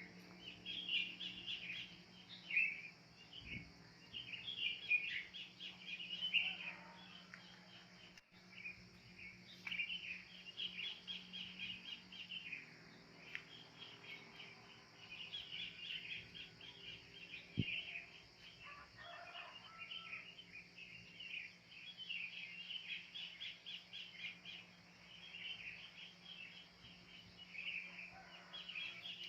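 A dense chorus of wild birds chirping without a break. Two lower, longer calls stand out, about six and nineteen seconds in, over a steady low hum.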